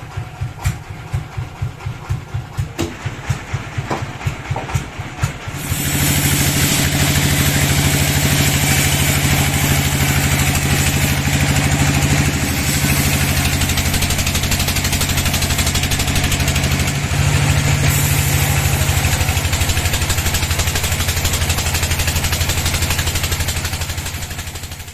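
Sawmill bandsaw engine chugging slowly with even beats, then speeding up about six seconds in and running steadily at high speed with a rushing noise over it.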